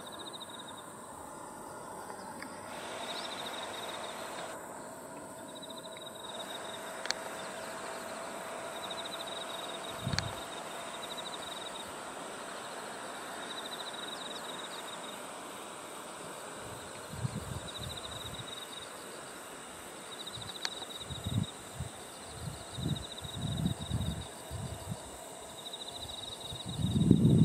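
Late-summer insect chorus in the fields: a steady high buzz with a pulsed trill repeating every second or two, and a few single sharp chirps. In the second half a series of low thumps comes in, loudest near the end.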